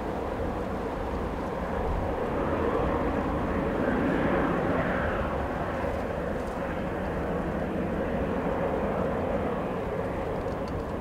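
Jet airliner engines, a steady drone with a held hum that swells to its loudest about four seconds in, then eases off.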